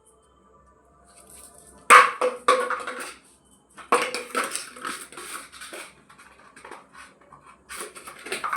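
A plastic bottle knocking and clattering on a hard floor as a small dog plays with it, with a few sharp hits that ring briefly.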